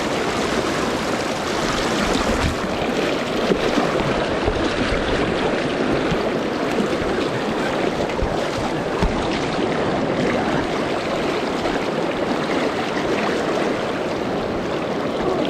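Mountain river water rushing over rocks, a steady, unbroken rush.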